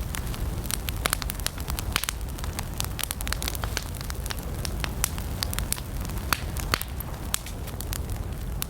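Wood campfire crackling: irregular sharp pops and snaps of burning wood, several a second, over a steady low rumble.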